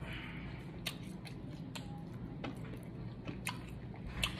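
A person chewing a mouthful of food close to the microphone, with scattered soft clicks and smacks of the mouth.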